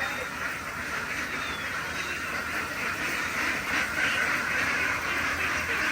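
A large flock of farm ducks quacking all together in a continuous mass of overlapping calls, growing a little louder after the halfway point.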